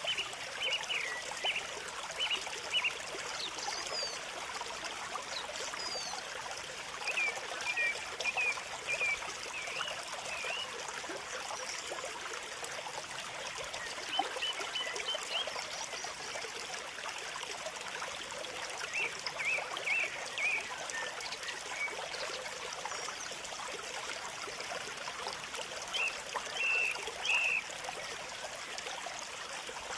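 Small birds chirping in short bursts of a few quick notes, recurring every several seconds, over a steady trickling-water sound.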